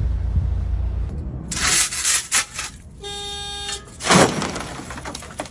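Road traffic noise with a low rumble, then a vehicle horn sounds once, steady for just under a second, about three seconds in, followed by a loud noisy burst.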